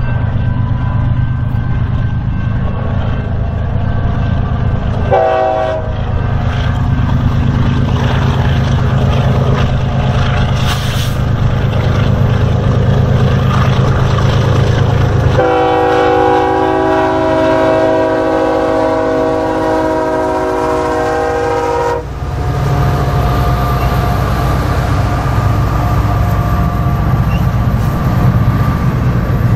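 BNSF diesel locomotives leading a coal train pass close with a deep engine rumble. The horn gives a short toot about five seconds in, then a long blast of about six seconds near the middle. After that, the coal hopper cars rumble and clatter steadily past.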